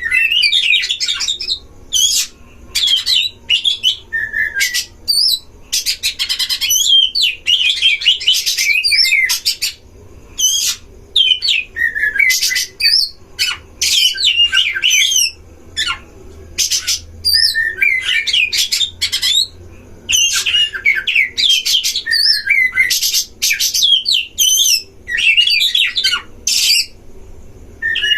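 Oriental magpie-robin song: fast, varied whistled phrases mixed with harsh rasping notes, in loud bursts of a second or two with short breaks between.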